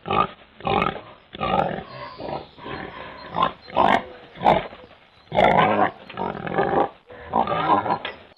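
Pigs calling in a run of short, separate grunts and squeals, about one to two a second.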